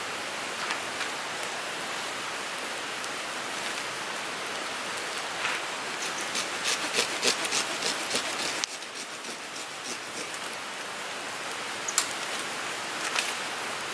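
Wood fire burning in a Picogrill 398 folding fire pit: a steady hiss with sharp crackles and pops, thickest in a flurry through the middle, with a few single pops near the end. The level drops suddenly a little past halfway.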